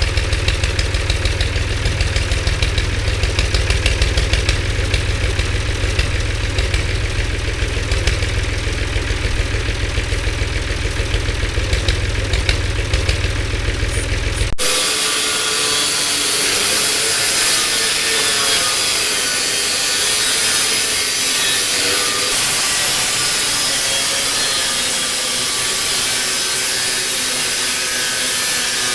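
Metal fabrication tools working steel: a steady buzzing, crackling sound for about half, cut off abruptly by a change to a bright, high hissing sound for the rest.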